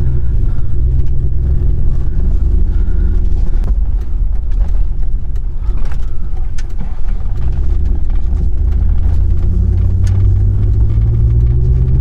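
Pickup truck driving: a steady low engine rumble with road noise, the engine note rising as the truck speeds up a little past the middle and again near the end.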